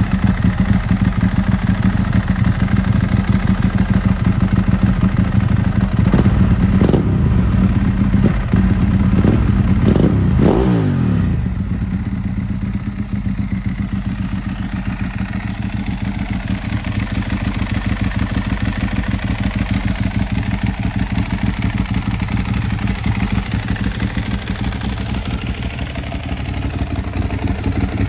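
Ducati 1098's 1099 cc L-twin engine idling with a fast, even beat. It is blipped several times between about six and eleven seconds in, and the revs fall back to idle. A dry-clutch rattle runs under the idle.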